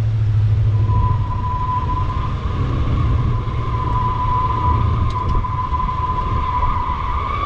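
1968 Buick Skylark's engine running as the car drives along. About a second in, a steady high-pitched whine comes in over the engine and holds.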